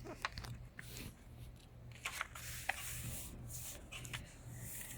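A sheet of paper being folded in half and creased by hand: soft rustling with a scattering of short, sharp crackles.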